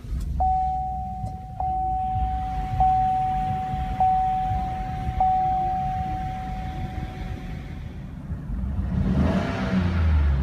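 2016 Chevrolet Tahoe's 5.3-litre V8 starting at the push of the start button and settling into a steady idle, while a dashboard warning chime dings five times, about once every second and a bit. The engine sound swells near the end.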